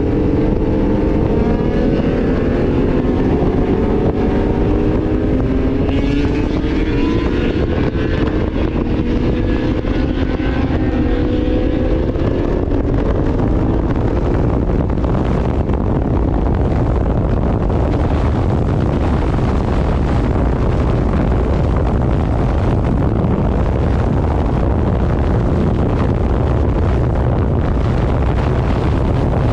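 Motorcycle engine pulling with a slowly rising pitch as it gathers speed over the first dozen seconds, then heavy wind rush on the microphone at speed that buries the engine.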